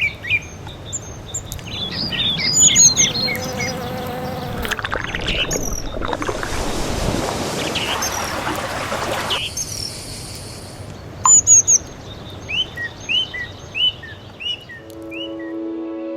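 Wild birds chirping and singing, with insects buzzing, and a rush of flowing river water in the middle that stops abruptly. Soft background music comes in near the end.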